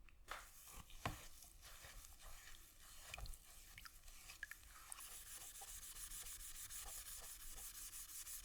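Hand abrasive work on metal: a few scattered scrapes and taps, then from about five seconds in a steady run of quick rasping strokes.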